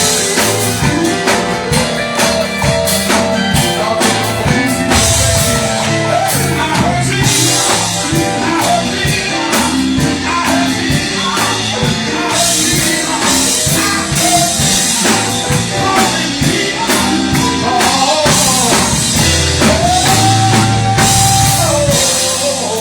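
Live gospel choir singing with a band, drum kit keeping the beat; one voice holds a long note near the end.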